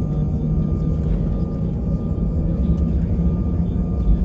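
Airbus A320-200 engines running steadily, heard inside the cabin as a continuous low rumble with a few steady hums over it.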